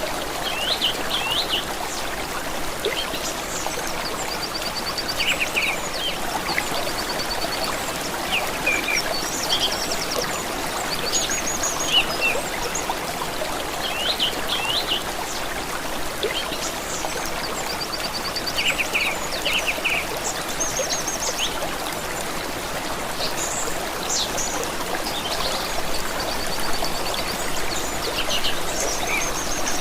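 Steady rush of a trickling stream, with several songbirds chirping and trilling over it throughout.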